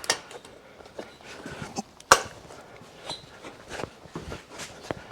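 Hand tools clinking and knocking against metal in short, scattered strikes, with one sharp loud knock about two seconds in.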